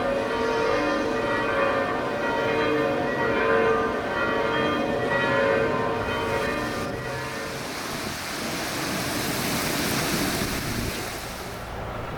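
Church bells ringing, several bells overlapping in repeated strokes. About seven seconds in the bells fade and a steady hiss takes over.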